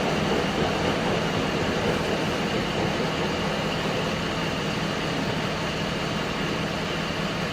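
Commuter train running through the station, a steady rumble of wheels on rails that slowly eases off.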